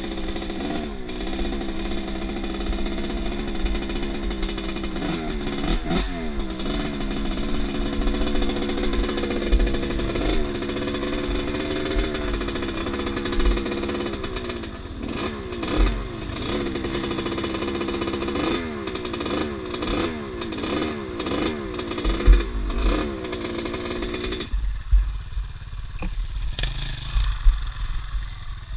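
Off-road motorcycle engine running and revving again and again, its pitch rising and falling, with low thumps of wind on the microphone. About 25 seconds in, the engine note drops away to a low rumble.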